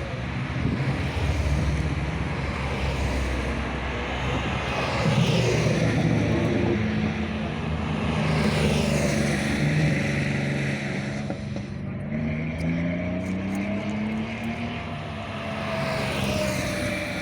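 Rally car engines passing along the stage, revving and rising and falling in pitch as they accelerate and shift, loudest about five and nine seconds in.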